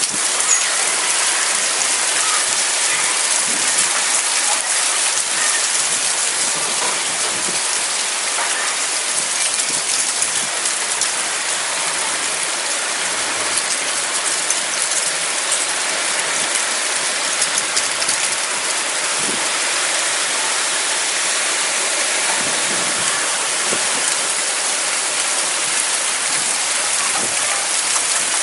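Heavy rain falling steadily as a loud, even hiss of drops during a storm.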